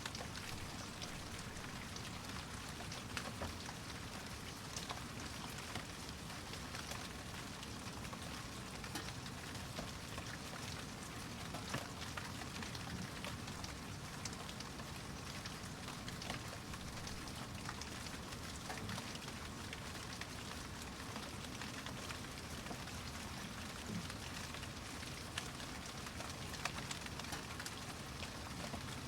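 Steady rain falling, with many small drop impacts ticking over an even hiss.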